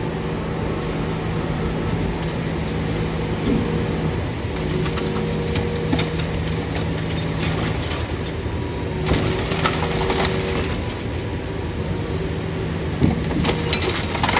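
Idromec T 650 CLS scrap metal shear baler running: a steady machinery drone with a low hum, and scattered metal clanks and scraping that grow busier near the end.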